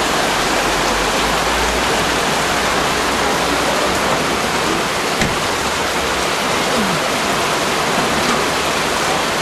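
Heavy downpour of rain, a dense steady hiss that keeps up without letup.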